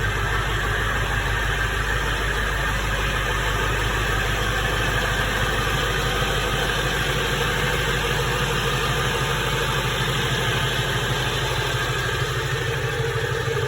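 Ford 7.3 Powerstroke V8 turbo-diesel idling steadily after a cold start, with a fast, even diesel clatter.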